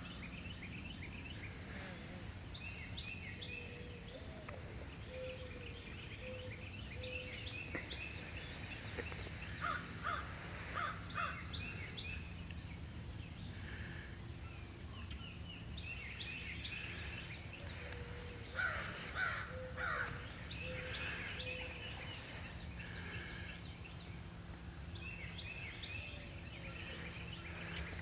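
Birds calling outdoors: two series of three loud calls, about ten and nineteen seconds in, among fainter chirping, over a steady low hum.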